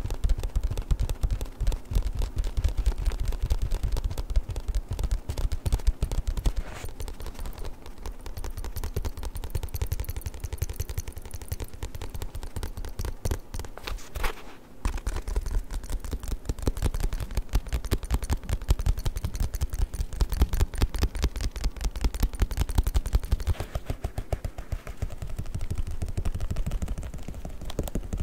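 Fast, dense tapping on a book, many taps a second, with a brief pause about halfway through.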